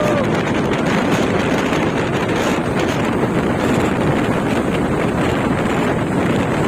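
Truck on the move: steady engine and road noise mixed with wind buffeting the microphone.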